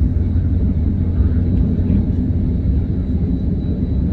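KLIA Express airport train running at speed: a steady low rumble with a faint, thin high whine held above it.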